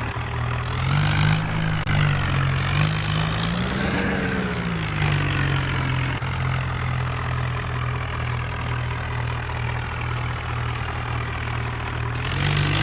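Small tractor's engine running, revving up and dropping back a few times in the first four seconds, then settling to a steady idle.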